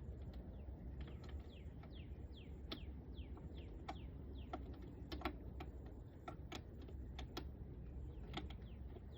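Faint, irregular light clicks and taps of handling, with many short, falling chirps of small birds in the background.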